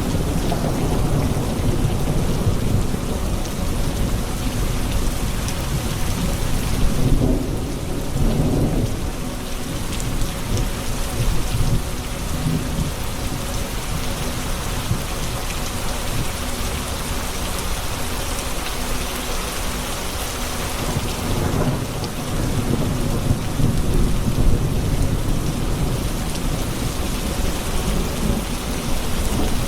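Thunderstorm: heavy rain falling steadily, with low thunder rumbling on and off, swelling several times.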